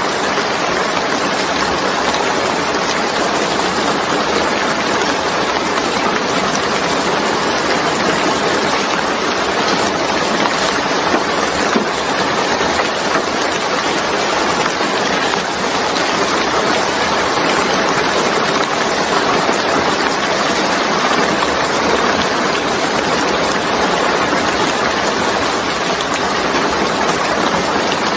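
Steady heavy rain falling, a dense even hiss of drops with no breaks.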